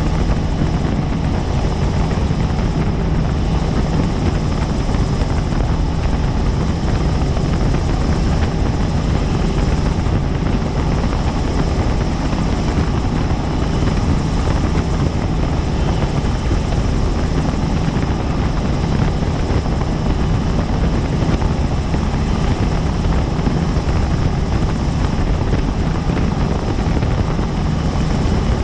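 Helicopter in flight: loud, steady rotor and engine noise, with a faint high whine held above it.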